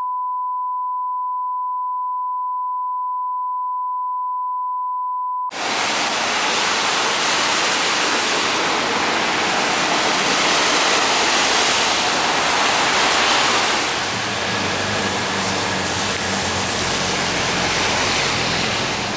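A steady 1 kHz reference test tone for about five seconds, cutting off sharply. Then a loud, even rushing hiss of heavy rain around a Nissan Diesel Space Runner RA city bus, with a low bus engine hum coming in under it about two-thirds of the way through.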